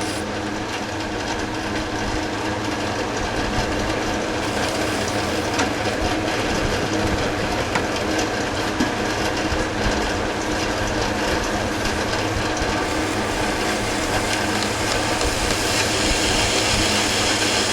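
Metal lathe running steadily at a lowered spindle speed and taking a cut, with a steady hum of several tones and scattered light ticks.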